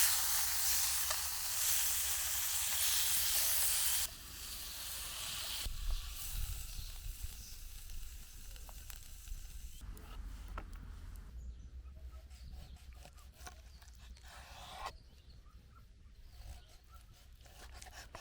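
Food sizzling in a pan, loud for about four seconds and then cut off abruptly. A much softer sizzle follows and fades away, with scattered faint clicks.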